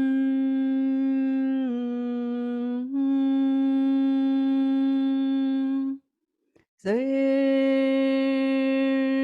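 A woman's voice humming long held notes as meditative toning. The note steps down a little about two seconds in and returns, breaks off for a short breath about six seconds in, and a new note slides up into place.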